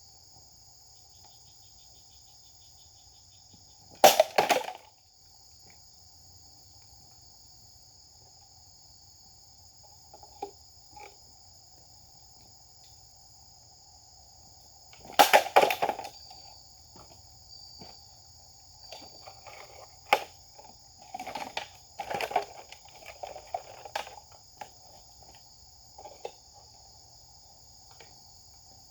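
Japanese sword (katana) swung in test cutting: a sharp, loud whoosh and cut about four seconds in and another around fifteen seconds, then a run of smaller sharp knocks and rustles. Insects sing steadily in the background throughout.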